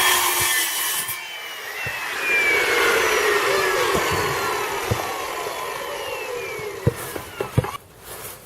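Electric power saw finishing a cut through wood. Its motor is then released and the blade spins down with a slowly falling whine over several seconds. A few sharp knocks come near the end.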